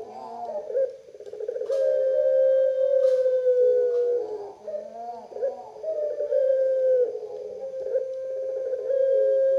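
Puter pelung (Barbary dove) giving its long drawn-out coo: several low notes, each held steady for a second or more and sagging slightly in pitch at the end, with short wavering notes between them.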